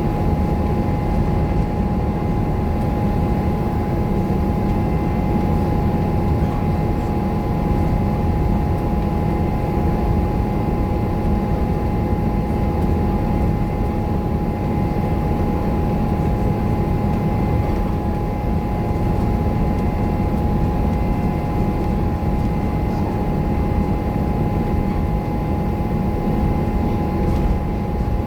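Scania K230UB bus's five-cylinder diesel engine and drivetrain running under way, heard on board: a steady low rumble with a constant whine over it.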